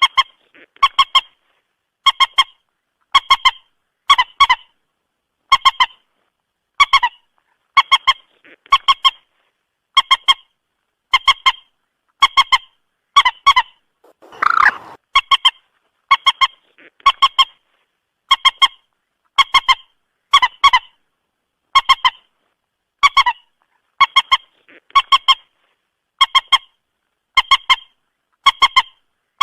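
Moorhen calls played as a trapping lure: a short, sharp call of two or three notes repeats about once a second, with one longer, rougher call about halfway through.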